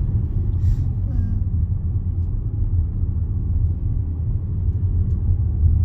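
Steady low road rumble of a car driving slowly on a rough single-track road, heard from inside the cabin.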